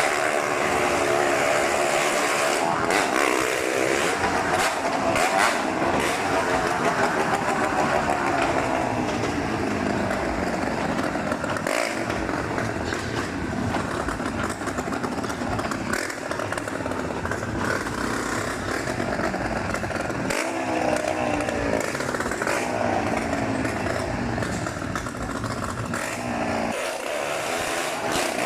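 Motorcycle engines running hard on a Wall of Death, the engine note rising and falling over and over as the bikes circle the wooden drum.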